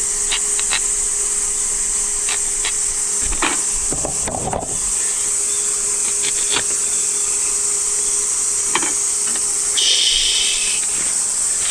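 Chorus of cicadas shrilling steadily throughout, with scattered clicks and a brief rubbing rustle about four seconds in from cookware being handled.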